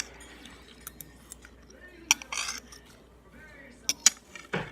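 Metal cutlery clinking against a dish a few times, with two clinks in quick succession near the end and short scraping sounds between.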